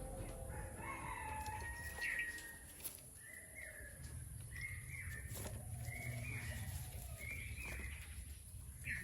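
Bird calls: a longer call about a second in, then four short, similar calls repeating roughly every second and a quarter.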